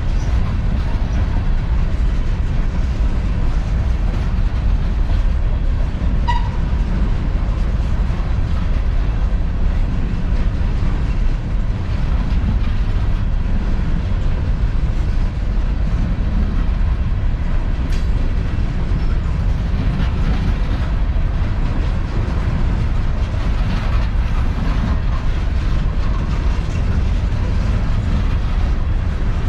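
A CSX coal train's empty hopper cars rolling past on the rails in a loud, steady low rumble.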